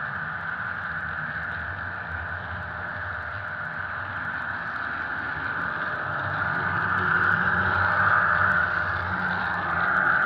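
Simulated diesel locomotive engine sound from a Soundtraxx Tsunami sound decoder in an HO-scale model of an EMD SD70ACe, running steadily through the model's small speaker and growing louder about six seconds in.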